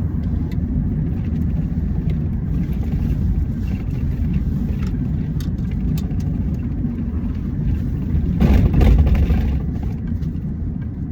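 Steady low rumble of a car on the move, heard from inside the cabin, with a louder swell about eight and a half seconds in.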